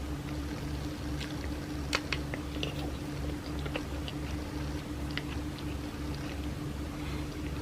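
Close-miked chewing of soft cake: small wet mouth clicks and squishes, with a sharper pair of clicks about two seconds in, over a steady low hum.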